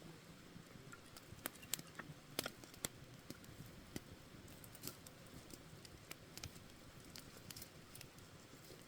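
Wood campfire crackling: irregular sharp pops and snaps over a faint low hiss, with a small cluster of louder pops between about one and three seconds in.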